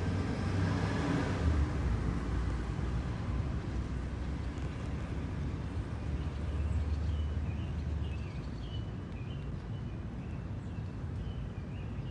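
Road traffic on a main street: a low rumble with a vehicle swelling past near the start, dying down about eight seconds in. Faint bird chirps come through in the second half.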